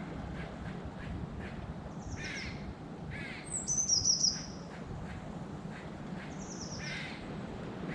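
Crows cawing repeatedly in short calls. A small songbird's brief high warbling phrase a little under four seconds in is the loudest sound. A steady low background noise runs underneath.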